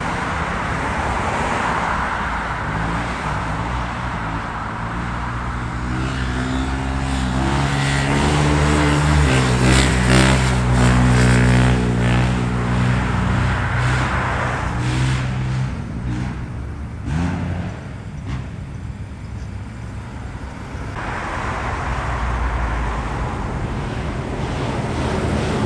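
Motorbike engine running and revving while riding: its pitch climbs and holds strongly through the middle, then drops sharply after about seventeen seconds, over a steady rushing noise.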